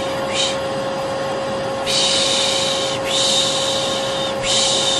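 Vacuum cleaner running steadily with a constant hum, with a soothing 'shhh' shushing sound repeated over it: a short shush near the start, then long shushes about two seconds in, about three seconds in and near the end.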